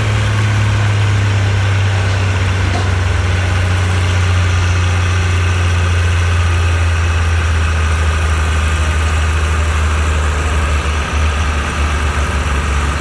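Antique farm-stock tractor engine running steadily under load in low gear, pulling a tractor-pull sled, with a deep, even engine note that wavers a little near the end.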